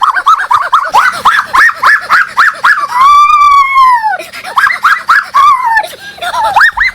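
An animal crying out over and over: rapid short high cries, about four a second, broken by one long drawn-out cry about three seconds in.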